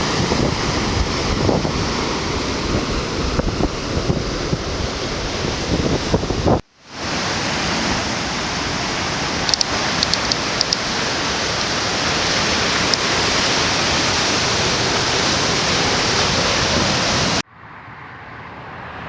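Wind buffeting the microphone over a steady wash of surf, in clips joined by abrupt cuts; near the end it gives way to a much quieter, even background noise.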